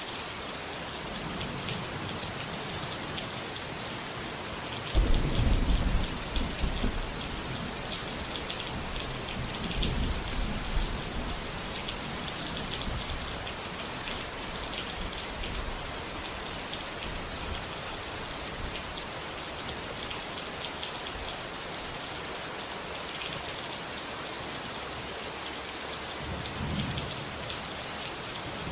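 Steady rain falling, with thunder: a loud low rumble breaks in suddenly about five seconds in and rolls for a couple of seconds, weaker rumbles follow around ten seconds in and again near the end.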